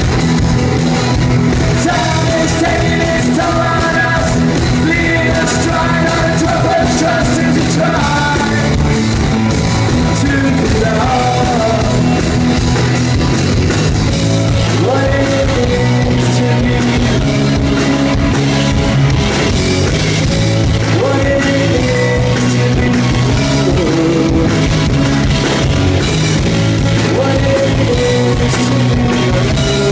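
Rock band playing a song with a steady beat, sustained low notes and a wavering melody line over them.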